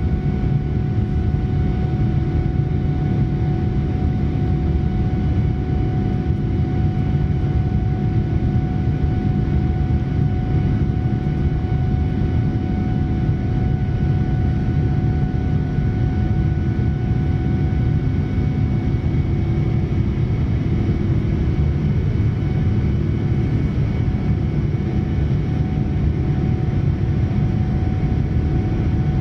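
Cabin noise of a Boeing 787-9 in flight: the steady drone of its Rolls-Royce Trent 1000 engines and the airflow past the fuselage, with a faint steady whine on top.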